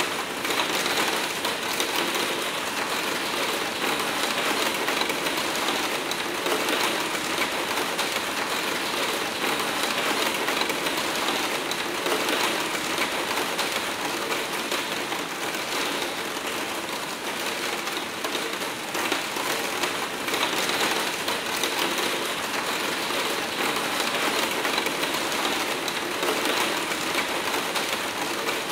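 Hard rain pelting a skylight's pane in a dense, steady patter of countless drops.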